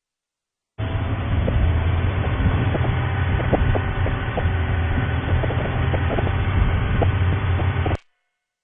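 Steady low rumble of a safari vehicle's engine and road noise heard from on board while driving, with faint rattling ticks. The stream cuts to dead silence in the first second and again near the end as the live signal drops out.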